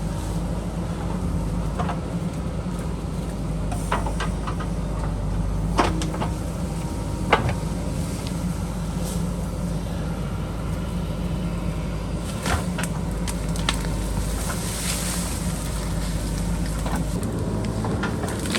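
JCB backhoe loader's diesel engine running steadily under work, with sharp clanks and knocks every few seconds.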